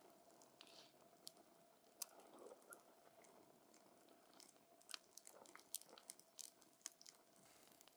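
Wood fire crackling softly: scattered sharp pops and snaps of burning wood over a faint hiss, the pops coming thicker in the second half.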